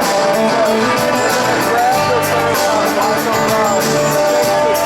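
Live rock band playing, with drums keeping a steady beat under electric guitar and bass between sung lines.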